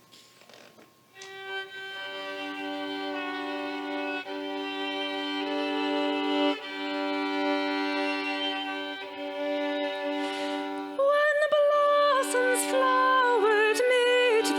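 Instrumental introduction to a sung Christmas song: soft held chords with violin, then a louder violin melody coming in about eleven seconds in.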